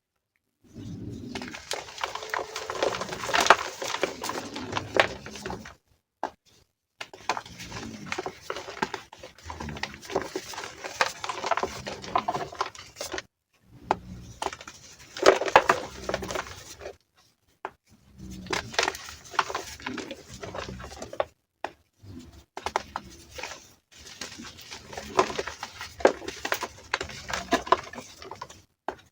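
Reformed gym chalk being crushed: crunchy, crisp crackling and crumbling in about five bursts of a few seconds each, with short silent gaps between them.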